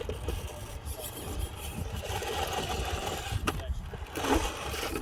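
Small electric motor of a radio-controlled truck whining as it drives, over a steady low rumble of wind on the microphone.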